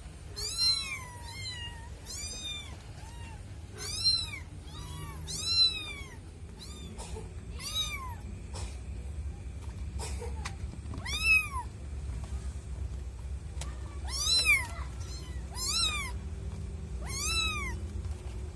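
A kitten meowing over and over: short, high calls that each rise and then fall in pitch, coming every second or two.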